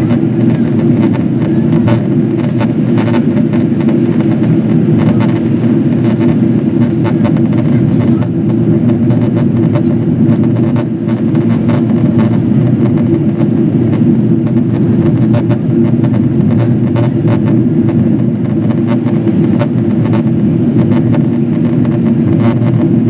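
Steady low roar of a Boeing 777-200ER's engine and airflow noise inside the passenger cabin during descent, with faint scattered clicks over it.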